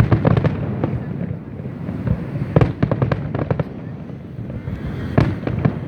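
Aerial fireworks going off: clusters of sharp crackling pops over a continuous low rumble of bursts, with dense volleys at the start, around the middle, and again near the end.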